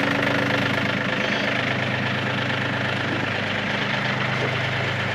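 Yanmar tractor's diesel engine idling steadily.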